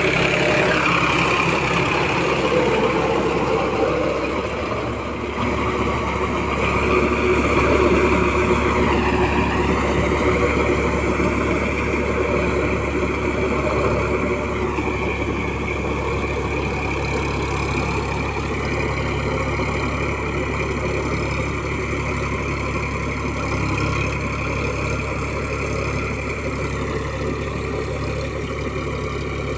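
Massey Ferguson 9000 tractor engine running steadily while puddling mud, its pitch dipping briefly a couple of times.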